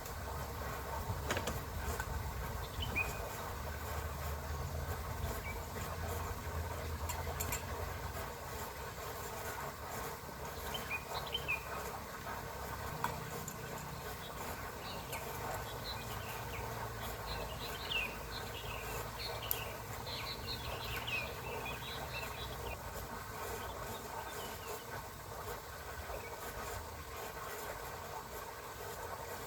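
Night-time outdoor ambience: a steady hiss and hum with a low rumble underneath, a run of short high chirps through the middle, and a few sharp clicks.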